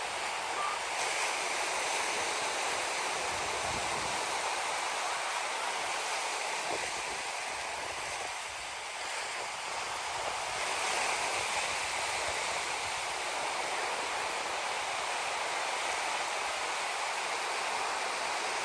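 Ocean surf washing onto a beach: a steady rushing hiss that eases a little about halfway through, then swells again.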